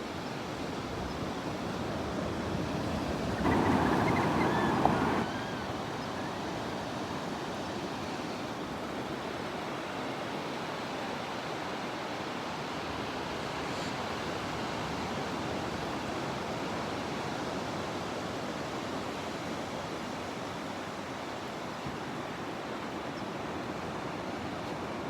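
Steady rushing noise, with a louder burst of rushing lasting about two seconds near the start.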